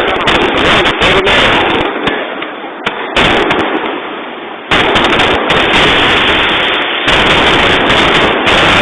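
Fireworks display: a dense barrage of bursts and crackles. It steps up abruptly in loudness a little past halfway, and again later.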